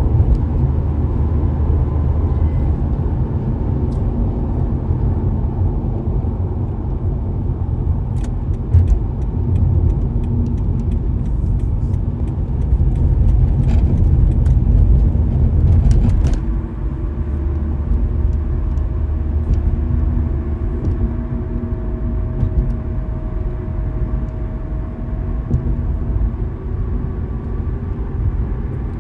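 Car driving on a road: a steady low rumble of road and engine noise that swells for a few seconds about halfway through, with a few faint clicks.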